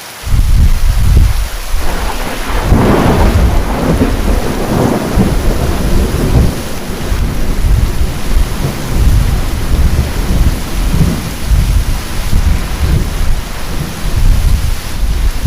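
Thunder breaks suddenly right at the start over heavy rain, with a crackling peal about two to five seconds in, then rolls on as a long low rumble under the steady hiss of the rain.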